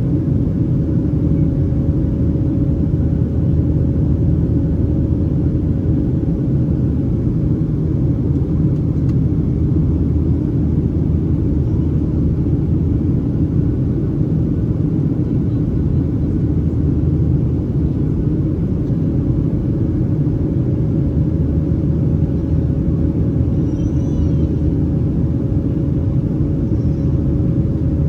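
Steady cabin noise of a Boeing 737-800 in flight, heard from a seat over the wing: the CFM56-7B engines and the airflow make an even rumble with a steady hum on top.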